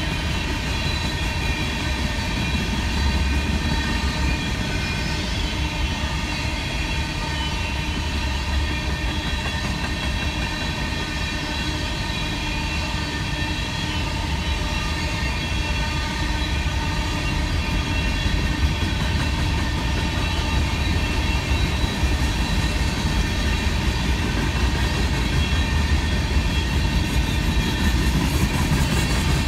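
Freight train rolling past with a steady, unbroken rumble of cars on the rails.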